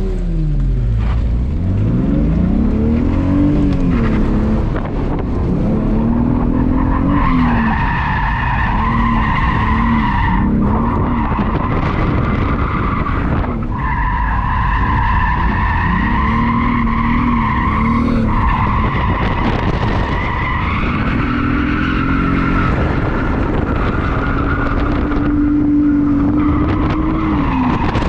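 Drift car being driven, its engine revving up and down repeatedly while the tyres squeal through long slides, the squeal breaking off and starting again several times.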